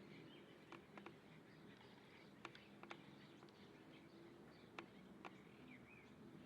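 Faint, sparse bird chips: a few sharp single ticks, then a short wavering chirp near the end, over a low steady background hum.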